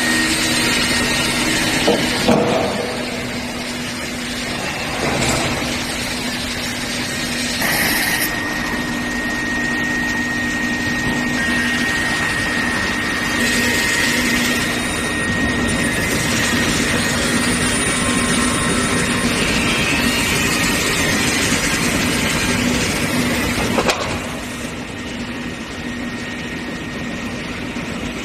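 Induction forging furnace line for steel bar running: steady machinery noise with a low hum and, from about eight seconds in, a thin high whine. A few short knocks come through, near the start, about five and eight seconds in, and near the end.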